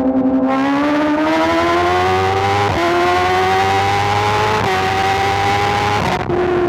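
2024 BMW S1000RR's inline-four engine accelerating hard under full throttle, its pitch climbing through the revs with two quick upshifts. Near the end the throttle is closed and the engine note falls away as the bike slows.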